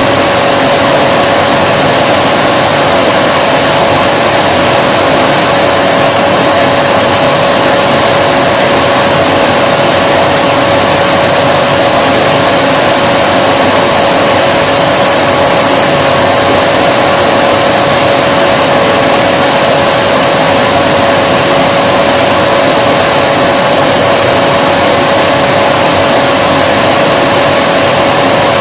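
Vacuum cleaner running steadily with an unchanging rushing noise and a constant hum. Its pitch and loudness hold even throughout.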